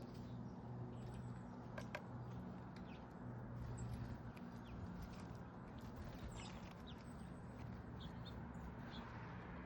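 Small backyard songbirds at a feeder giving short, scattered high chirps and calls, with a few sharp clicks, over a steady low hum.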